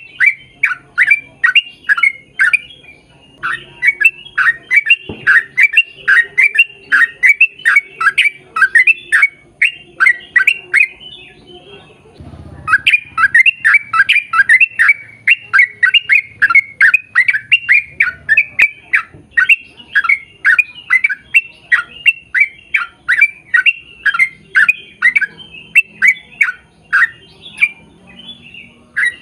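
A bird calling loudly in a rapid series of short, down-sweeping squawks, about three a second, with two short pauses.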